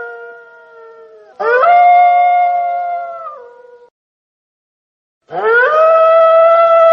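Wolf howling: a long howl that swoops up, holds and steps down in pitch before fading, then a short silence, and a second howl rising and holding near the end.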